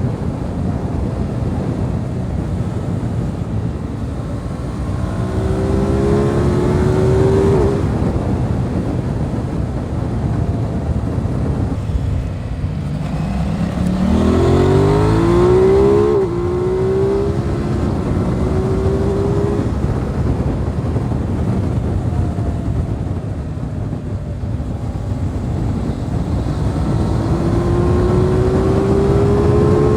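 Aprilia RS 660's parallel-twin engine accelerating hard three times, its pitch climbing and then dropping sharply at each upshift, over a steady rush of wind noise.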